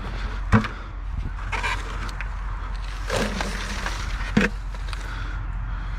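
Sand being shaken through a hand sifter screen, a rough scraping rustle over a steady low hum, with a sharp knock about half a second in and another near the end.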